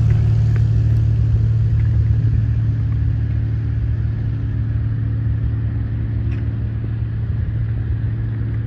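A steady low engine drone, holding one pitch and easing off slightly in loudness.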